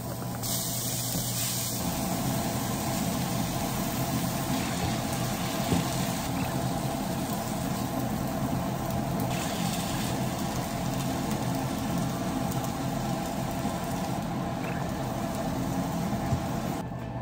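Vegetables and pork sizzling in a frying pan as they are stir-fried and stirred with a spatula, over a steady hum.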